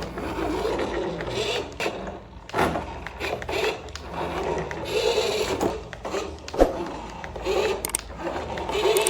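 Small electric motor and plastic gears of a remote-control toy whirring, swelling and easing off about every two seconds, with a few sharp clicks.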